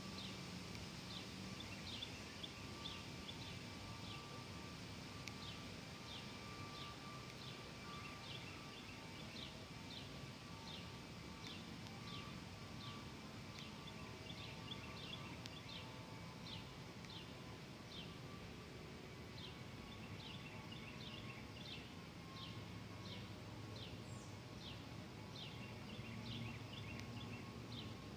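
Birds chirping: many short, high chirps that drop in pitch, repeated over and over against a steady outdoor background.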